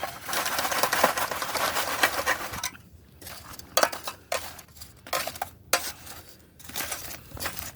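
Clattering and scraping of metal and rock pieces in a roasting pan: a dense rattle for the first few seconds, then scattered clinks and knocks.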